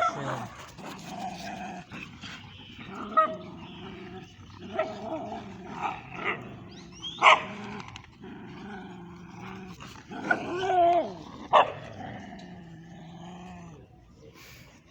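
Dogs play-fighting: continuous growling broken by sharp barks or yelps, the loudest about seven seconds in, with others a few seconds in and again near the end.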